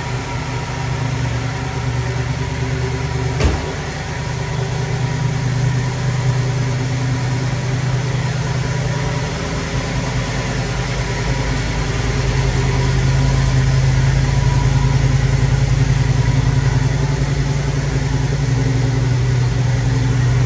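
1957 Ford Thunderbird's Y-block V8 idling steadily, with one sharp knock about three and a half seconds in. The engine sound grows a little louder in the second half.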